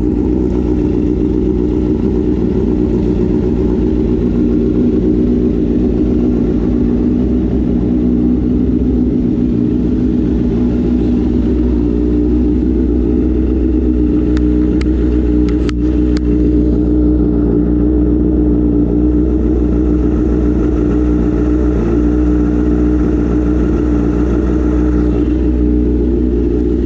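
Honda CBR1000RR inline-four engine idling steadily on its first start-up after winter storage, with a few light clicks about halfway through.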